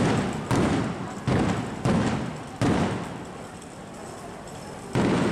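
Aerial fireworks bursting: five booms in quick succession over about three seconds, each followed by a rumbling tail, then one more about five seconds in.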